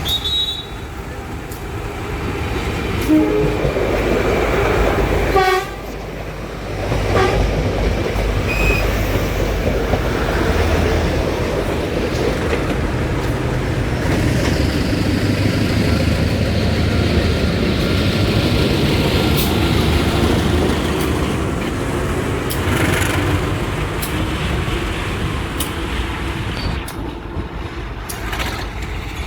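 Train sounding its horn for about two seconds a few seconds in, then a steady rumble and clatter of the train running on the rails.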